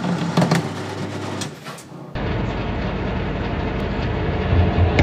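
Metal lathe running with a steady motor hum and a few sharp clicks, then, about two seconds in, an abrupt change to a noisier steady running sound.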